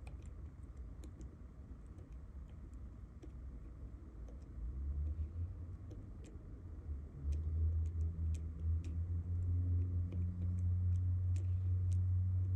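Transformer-type soldering gun humming while it melts the existing solder on a fuel pump relay's joints. The hum comes in about four and a half seconds in, grows louder and steady about seven seconds in, and stops near the end, with scattered light ticks throughout.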